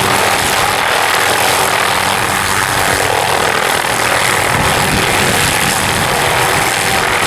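Helicopter running steadily, with an even rush of rotor and turbine noise over a few low, steady tones.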